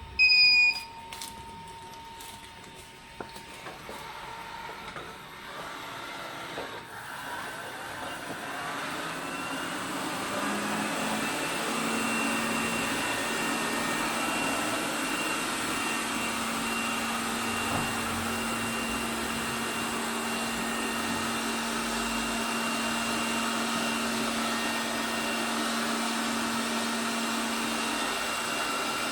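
ELARI SmartBot Lite SBT-002A robot vacuum starting up: a short loud beep at the start, then its motor and brushes spin up over several seconds and run steadily with a low hum.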